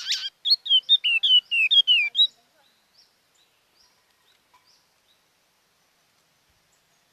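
A bird singing: a harsh call at the start, then a quick run of about eight clear whistled notes, each dropping in pitch, lasting about two seconds, followed by a few faint chirps.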